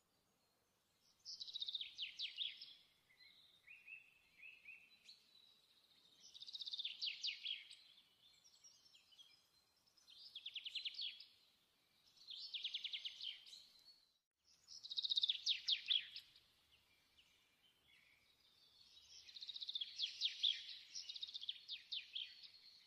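A small bird singing: a series of short, rapid trilled phrases, each a second or two long, with pauses between.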